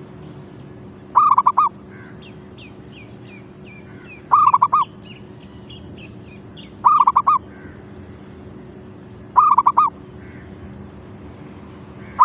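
Zebra dove (merbuk) calling: a short burst of rapid cooing notes about every two and a half seconds, with the last call starting right at the end. Fainter, higher chirping of small birds comes between the calls in the first half.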